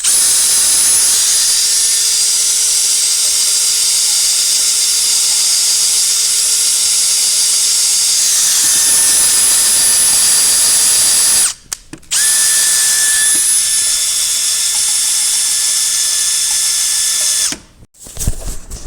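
Power drill running steadily at high speed, stopping for under a second about eleven seconds in, then running again until shortly before the end.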